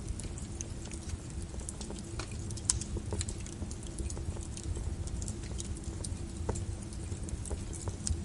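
Wood fire crackling: irregular sharp snaps and pops over a low steady rumble of the flames, one louder pop nearly three seconds in.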